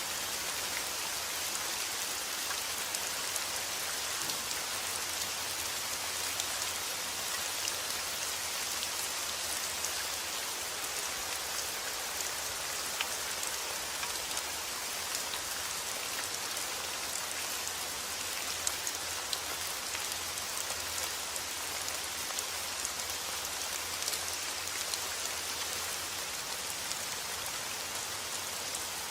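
Steady rain falling: an even hiss peppered with many small sharp drop ticks.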